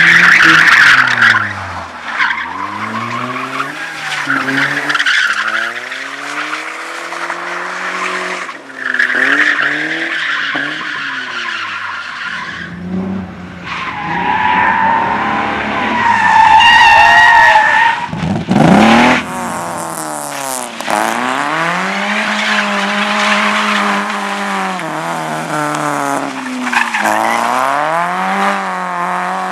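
Slalom competition cars driven hard through the course: engines revving up and dropping back again and again with gear changes, and tyres squealing in the turns.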